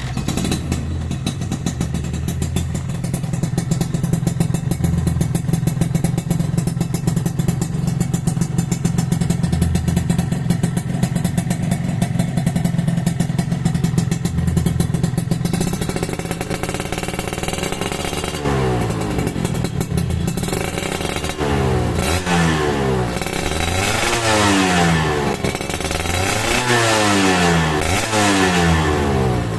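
Suzuki Satria motorcycle running through a custom-built aftermarket exhaust, idling steadily for about the first half, then revved up and let fall back again and again in quick blips.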